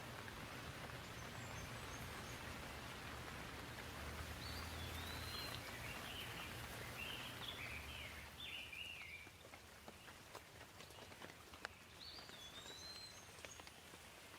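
Gentle rain falling steadily, with single drops ticking more clearly in the second half. A bird chirps in a quick run of short rising and falling notes from about four seconds in, and again briefly near the end.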